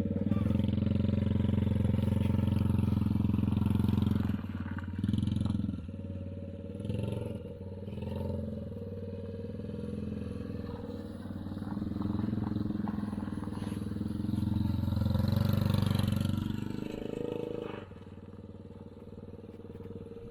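Kids' car's 110cc engine running under throttle, loud for the first four seconds, easing off, then rising again and dropping back near the end.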